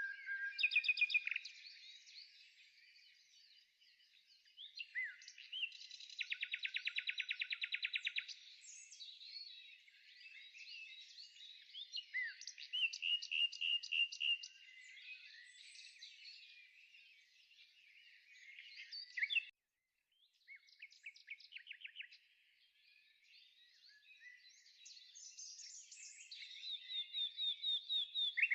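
Birdsong: several birds chirping and whistling, with fast rattling trills about six seconds in and again about thirteen seconds in, and a brief break near the middle.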